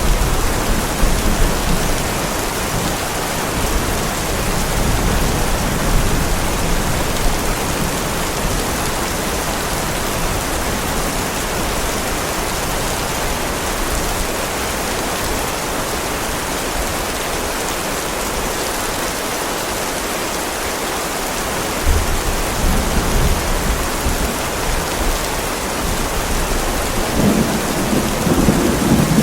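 Heavy rain falling steadily in a thunderstorm, with low rolls of thunder: one dying away in the first few seconds, another starting suddenly about two-thirds of the way in, and a third building near the end.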